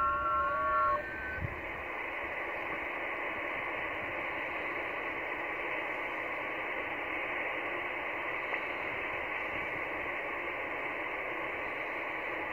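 Shortwave radio receiver audio on the 15 m band. A few steady FT8 data tones stop about a second in, followed by a faint click. After that comes an even band hiss, filling the receiver's narrow audio passband.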